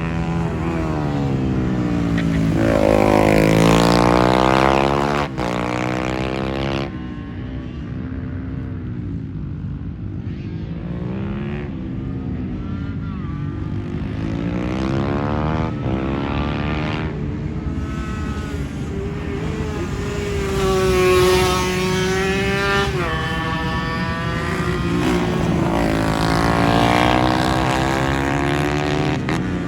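Motorcycle engines on a race track, several bikes at once, revving up and down as they pass, with engine pitches rising and falling over each other. The loudest passes come a few seconds in and again about two-thirds of the way through.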